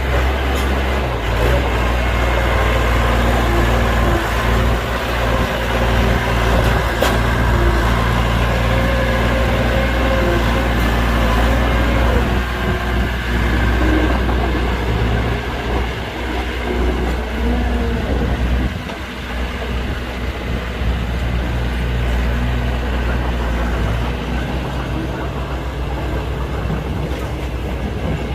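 Heavy diesel earthmoving machinery running steadily with a deep drone, with a few short knocks and clanks, easing slightly about two-thirds of the way through.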